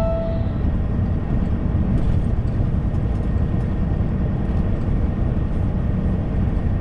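Steady engine and road rumble heard inside a truck's cab while driving. A brief two-note falling chime sounds right at the start.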